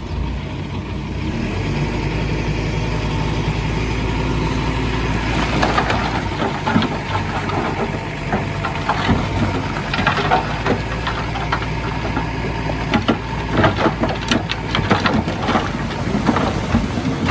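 Heavy diesel earthmoving machinery running steadily. From about five seconds in, irregular metallic clanks and rattles come over the engine.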